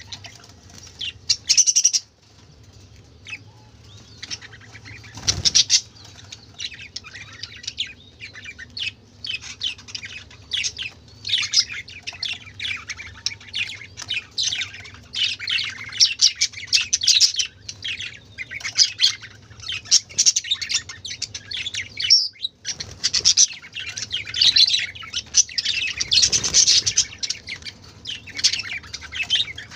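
A flock of budgerigars chattering, with many short chirps and warbles overlapping continuously.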